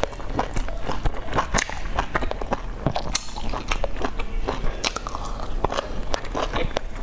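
Close-miked chewing and biting of soft steamed dumplings: irregular mouth smacks and clicks, with no steady rhythm.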